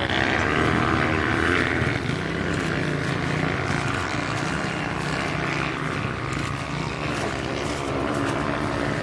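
Off-road motorcycle engine running steadily, its pitch rising and falling slightly with the throttle.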